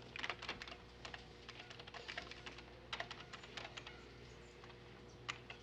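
Typing on a keyboard: irregular runs of quick keystroke clicks, over a faint steady hum.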